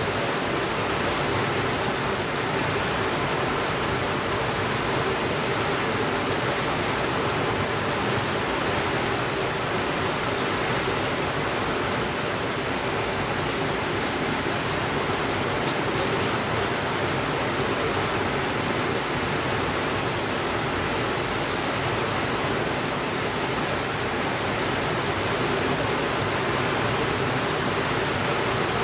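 Steady rainfall, an even hiss with no changes in level and no thunder.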